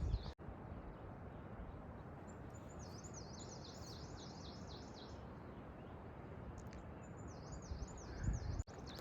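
A small songbird singing two quick runs of high, repeated up-and-down notes over the steady rush of a mountain river.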